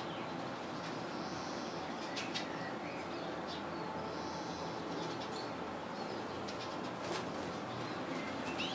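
Small songbirds: a few short chirps and brief wing flutters over a steady background hiss.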